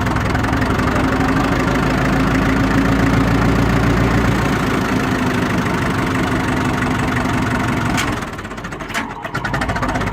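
The four-cylinder gas-start diesel engine of a 1956 International TD6 crawler dozer running steadily while cold, still too cold to switch over from gasoline to diesel. Near the end there is a sharp click and the engine sound drops briefly before picking up again.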